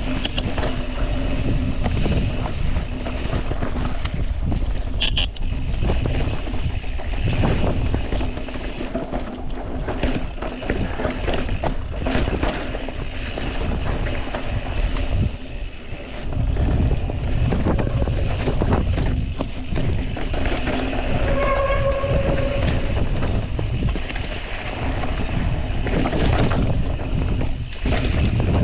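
Wind buffeting the microphone and tires rolling over dirt and rock as a mountain bike rides fast down a flowy singletrack, the bike rattling over bumps. A brief squeal about three quarters of the way through.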